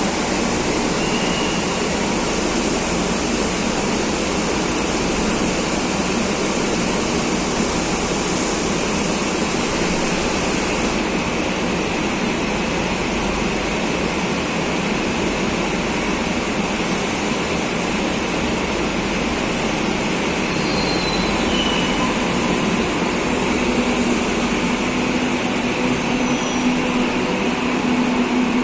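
Madrid Metro series 2000B train running, a steady rushing rumble with a low hum that grows stronger near the end.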